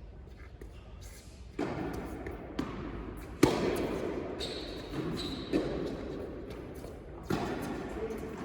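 Tennis ball being struck by rackets and bouncing on an indoor court during a rally: sharp knocks roughly a second apart, starting after a quiet second and a half, the loudest about three and a half seconds in.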